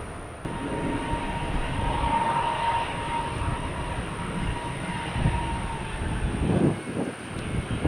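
Jet airliner engines running with a steady whine over a dense rumble, the whine swelling and then fading out about six seconds in. Wind gusts buffet the microphone throughout.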